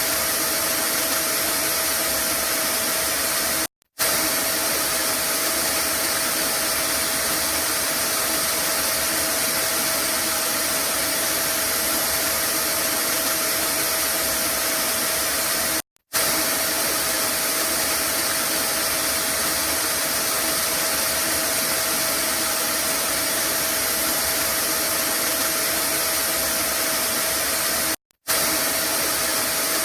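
Vacuum cleaner running steadily, a constant rushing noise with a steady whine in it. It cuts out to silence for a split second three times, about every twelve seconds.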